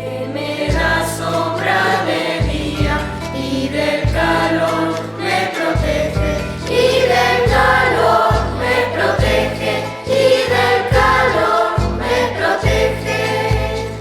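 Children's choir singing a huayno together, with instrumental accompaniment and a bass line of short repeated notes keeping the beat.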